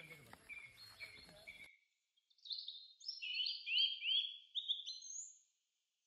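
Birds calling in forest: a few short repeated chirps over faint background noise that cuts off abruptly just under two seconds in, then a quick run of loud, rising whistled notes lasting about three seconds.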